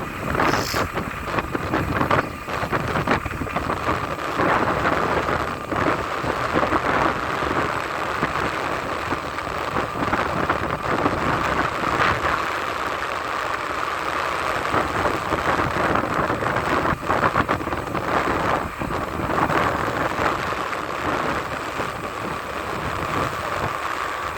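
Steady rushing noise of a vehicle on the move, with wind buffeting the microphone.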